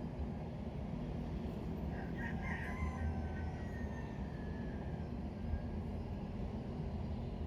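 A rooster crowing once, a drawn-out call that starts about two seconds in and falls away at the end, over a steady low rumble of background noise.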